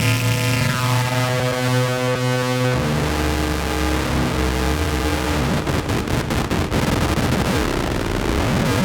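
Synthesized drone noise from a Novation Circuit groovebox playing a Howl preset: a steady layered drone that switches abruptly about three seconds in to a harsher, noisier texture with a deep low hum. Near the end, swooping pitch glides and rapid crackling come in.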